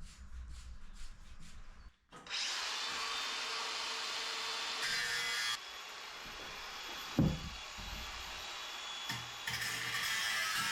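An angle grinder working steel. It starts about two seconds in and runs steadily under load, getting louder in stretches as the cut bites. There is a single dull knock about seven seconds in. Before the grinder starts, there are faint, evenly repeated scraping strokes.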